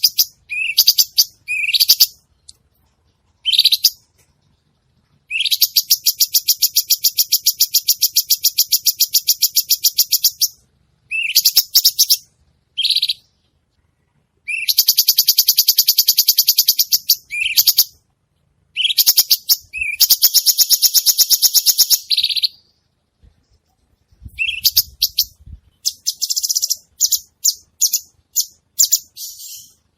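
Cucak cungkok songbird singing in full voice: short, high chirps alternate with three long, fast trills of several seconds each, then a run of quick short phrases near the end.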